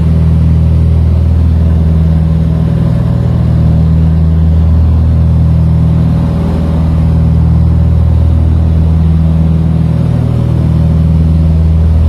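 Steady, loud drone of an aircraft's engines, a low hum that swells and fades slightly every couple of seconds.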